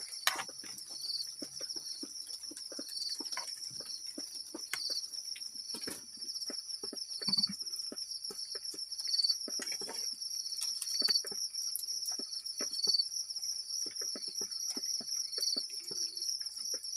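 A chorus of crickets and other insects, trilling steadily and high-pitched, with a shorter chirp repeating about once a second. Scattered light ticks and taps run through it.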